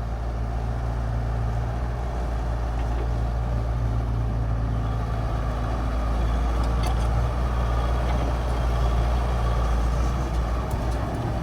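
Hitachi mini excavator's diesel engine running with a steady low drone.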